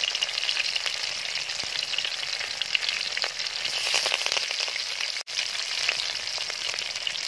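Shallots, green chilli, rampe (pandan) and curry leaves frying in hot oil in a clay pot: a steady sizzle full of small crackling spits, breaking off for an instant about five seconds in.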